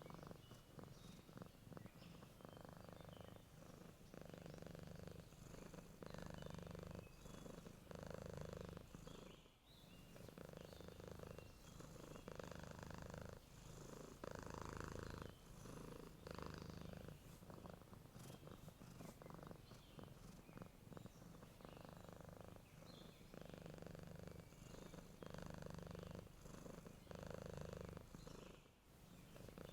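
Sleeping cat purring softly, swelling and easing with each breath about every two seconds.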